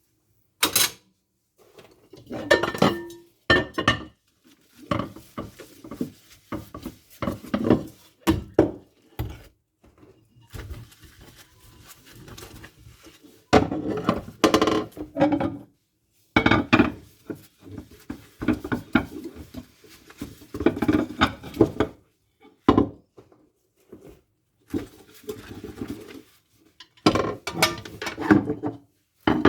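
Dishes, pots and cutlery being handled and washed by hand in a sink: irregular clattering and clinking of crockery and utensils, with short pauses.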